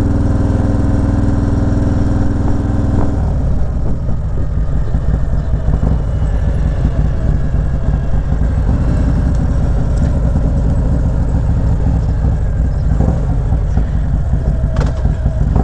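Motorcycle engine running steadily. About three seconds in, its even tone gives way to a rougher, noisier low rumble as the bike rides on.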